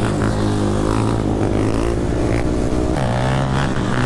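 Dirt bike engine running under way, its pitch rising and falling with the throttle and shifting about three seconds in.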